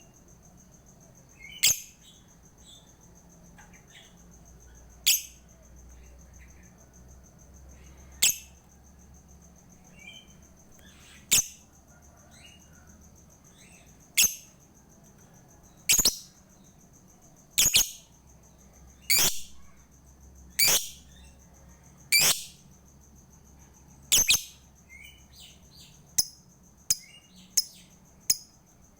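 Lovebird giving single shrill, sharp calls every two to three seconds, then a quicker run of shorter chirps near the end.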